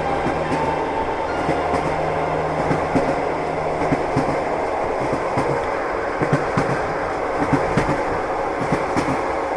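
Train wheels clattering over the rails: a steady rumbling noise with irregular sharp clicks.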